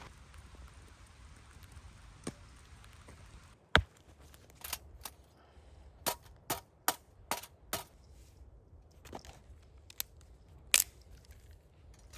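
Soft rain hiss that drops away about four seconds in, followed by a series of sharp, irregular clicks or taps, about a dozen, spaced unevenly.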